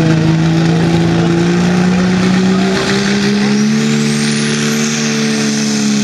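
Diesel pulling truck's engine running hard at steady high revs. Its pitch steps up about three seconds in, and a high whistle rises over the following couple of seconds.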